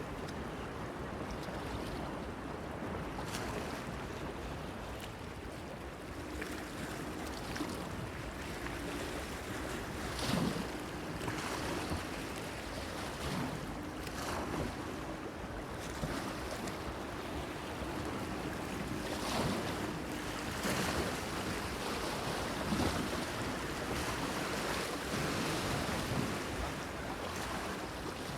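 Small waves washing and splashing against a pier, with irregular louder splashes every few seconds over a steady wash, and wind on the microphone.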